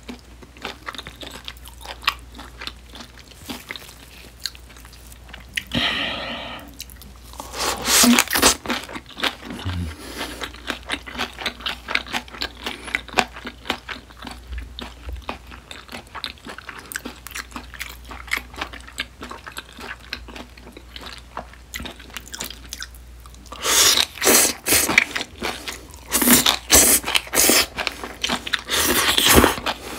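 Close-miked mouth sounds of eating smoked duck wrapped in chive kimchi: a steady run of wet chewing clicks, with louder crunchy bites about six to eight seconds in and again through the last several seconds.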